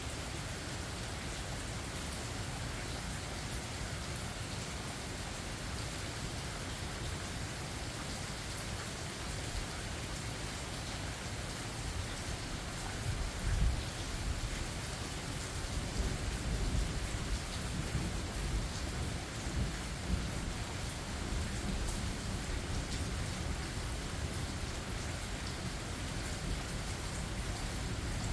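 Steady rain falling, with thunder rumbling low from about halfway through.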